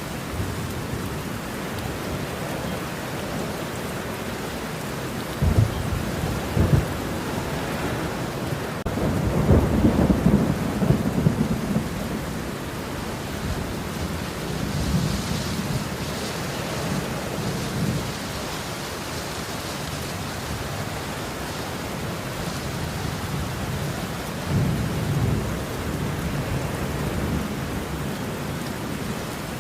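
Steady heavy rain with rolls of thunder: sharp low cracks about five and a half seconds in, a longer rumble from about nine to twelve seconds, and a softer roll near the end.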